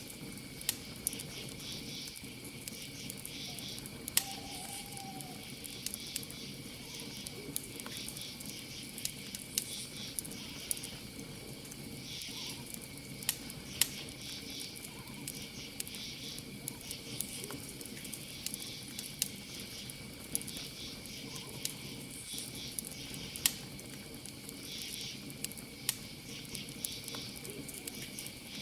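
Campfire crackling, with sharp pops scattered irregularly, over a steady chorus of crickets trilling and insects chirping in pulses. A short call that rises and falls in pitch sounds about four seconds in.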